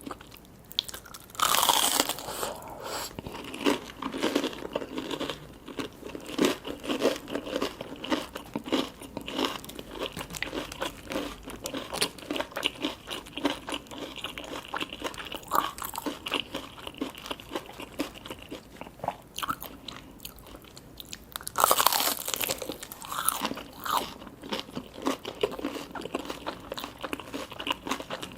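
Close-miked eating with no talking. Two loud crunchy bites land about a second and a half in and about 22 seconds in, and steady chewing runs between and after them.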